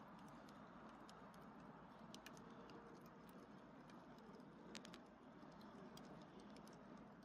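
Small wood fire in a fire stand crackling faintly: scattered sharp pops and ticks, a couple slightly louder, over a low steady hiss.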